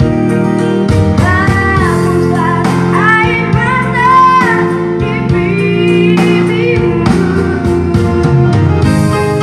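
A child singing an Indonesian pop ballad, with sung phrases that bend in pitch on held notes over steady instrumental accompaniment.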